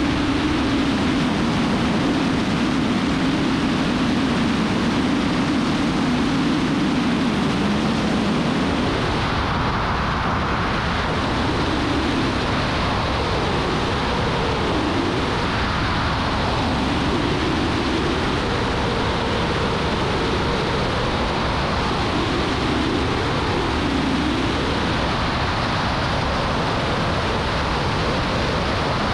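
Steady drone of a single-engine light airplane's engine and propeller, heard from inside the cockpit. About nine seconds in, the tone of the drone shifts.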